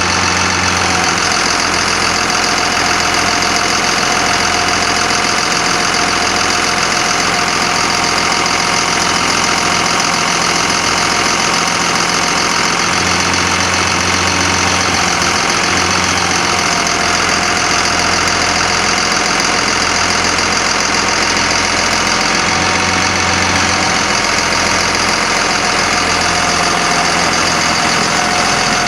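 1991 GMC Topkick bucket truck's Caterpillar diesel engine running steadily, likely at idle.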